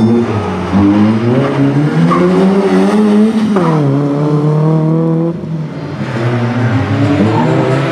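Rally car's engine revving hard as it accelerates through the gears: the pitch climbs, drops sharply at a gear change about three and a half seconds in, and climbs again; the engine backs off briefly past the five-second mark before pulling again.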